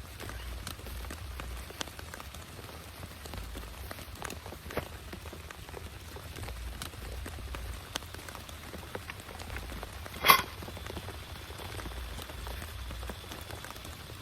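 Steady rain with many separate drops tapping on a close surface. About ten seconds in comes one much louder, sharp tap or knock.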